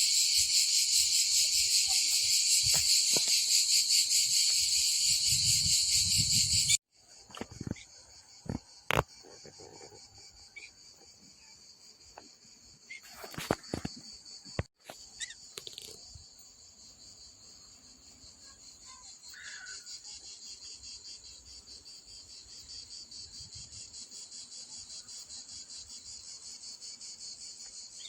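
Night insects chirring in a dense, rapidly pulsing chorus. It is loud at first, then drops abruptly to a quieter chorus about seven seconds in, with a few scattered clicks and knocks.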